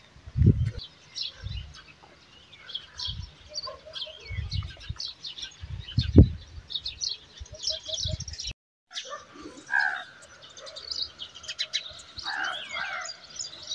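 Small birds chirping and calling, many short high notes overlapping throughout, with occasional low rumbles on the microphone. The sound cuts out for a moment about two-thirds of the way through.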